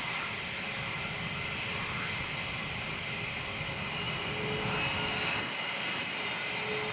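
Military jet engines running steadily at low power, a constant high whine over a low rumble, as jets taxi.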